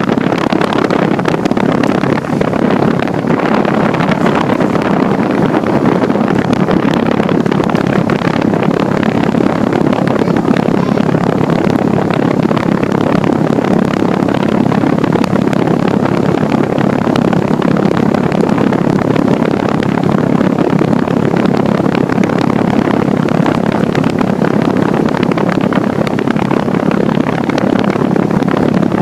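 Central air conditioner's outdoor condensing unit running close by, a steady loud whoosh from its condenser fan over the compressor.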